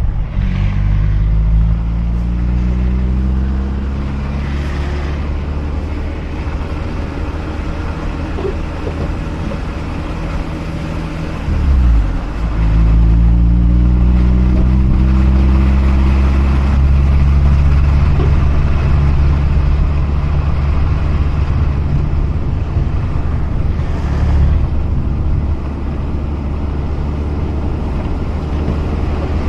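Mazda RX-8's twin-rotor Wankel rotary engine running as the car drives, its pitch slowly falling, dipping sharply about twelve seconds in, then rising again as it pulls away and holding steady.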